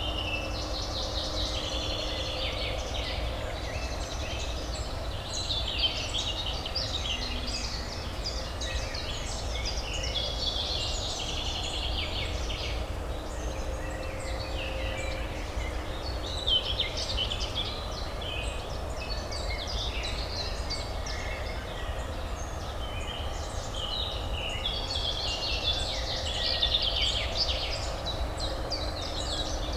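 Small birds chirping and singing in dense clusters every few seconds over a steady low urban hum.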